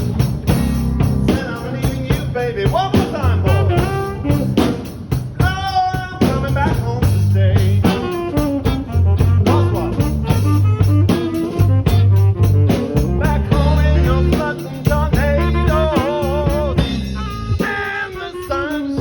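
Band playing a slow blues: lead guitar with bent, wavering notes over bass and a drum kit keeping a steady beat.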